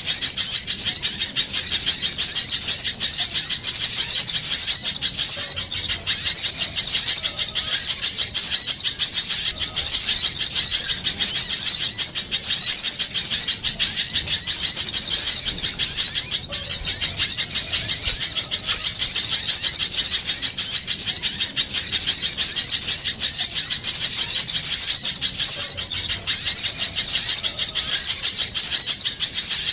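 Dense, unbroken chatter of many small birds, overlapping high chirps crowding together without pause: a bird-lure call recording of a noisy flock of small birds.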